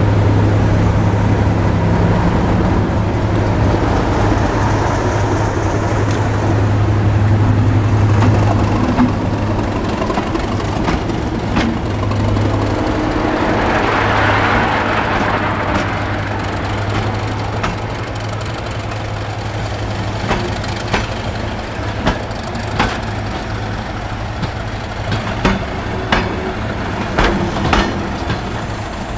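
Heritage diesel locomotive's engine running with a steady deep drone that fades away after about ten seconds. A broad rush of noise swells and dies around the middle, and in the last third sharp clicks of train wheels on rail joints come at uneven intervals.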